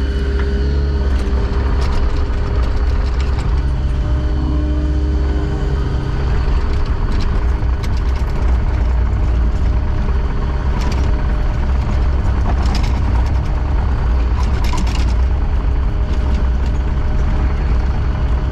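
Engine of heavy earthmoving equipment running steadily, with a few short metallic knocks.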